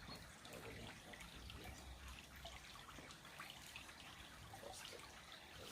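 Faint trickle of creek water with scattered small drips.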